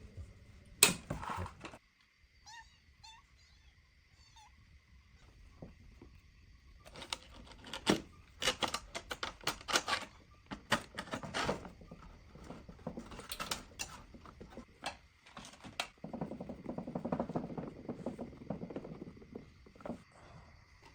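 Hand work on small appliance parts: a string of light clicks, taps and knocks, thickest in the middle, then a few seconds of rubbing or scraping near the end, over a faint steady high whine.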